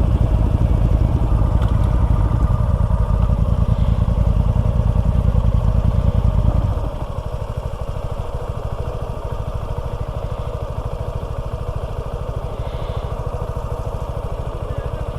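Motorcycle engine running with a steady pulse. About seven seconds in it drops to a lower, quieter running level and stays there.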